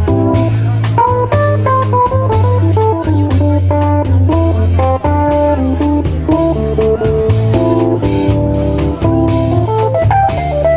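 Instrumental music: electric guitar picking a melodic line over bass guitar and drums.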